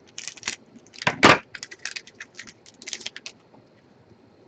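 Trading-card packs and cards being handled: a quick, irregular run of crisp clicks and rustles, with one louder crackle a little past a second in, like a foil pack wrapper being torn open.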